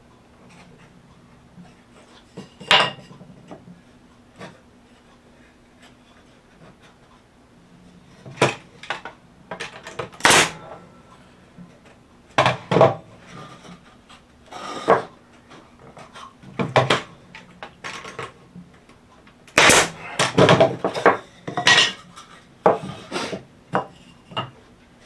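Wooden fence-picket boards and small tools being handled, set down and knocked against each other on a bench: a scattered series of sharp knocks and clicks, busiest near the end.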